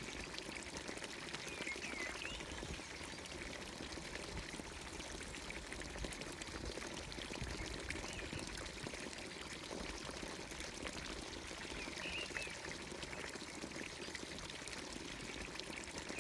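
Water pouring steadily from a village fountain's spout into its watering trough. A bird gives short chirping calls twice, about two seconds in and again about twelve seconds in.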